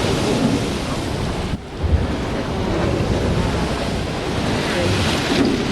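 Ocean surf rushing steadily, with wind buffeting the microphone. The sound briefly drops out about a second and a half in, followed by a low thump.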